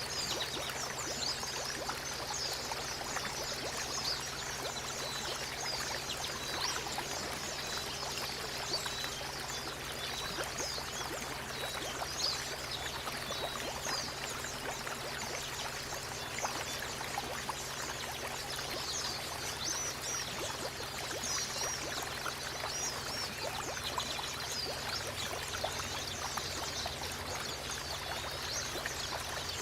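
Steady running water with many small white-eyes (pleci) chirping short high calls over it throughout.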